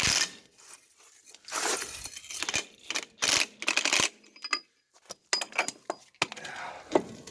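Metal parts being handled: a sharp knock at the start, then irregular scrapes and clinks with a brief pause about five seconds in.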